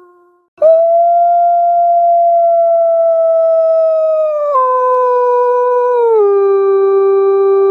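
A wolf howling: one long, loud howl that starts abruptly about half a second in, holds a steady pitch, then drops in pitch in two steps and carries on.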